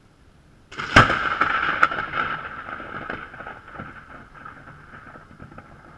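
Thunderclap from a close lightning strike: a sudden sharp crack about a second in, followed by further cracks and crackling that fade away over the next few seconds.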